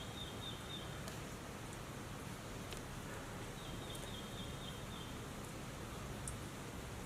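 Steady wind noise and rumble under a storm-warning gale, with a short, high, rapid trill of several notes heard twice, about four seconds apart, and a few faint ticks.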